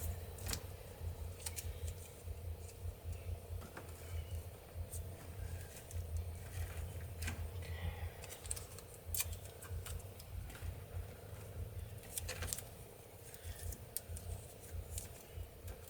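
Scattered small clicks, ticks and rattles of wires and a hand tool being handled, with an uneven low rumble and a faint steady hum underneath.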